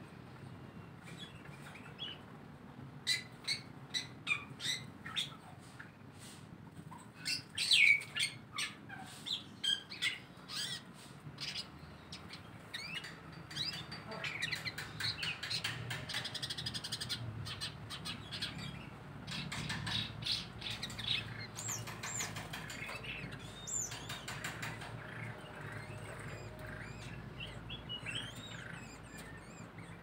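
Several small birds chirping and calling, with short sharp chips and quick whistled notes that come in bursts. One louder call stands out about eight seconds in.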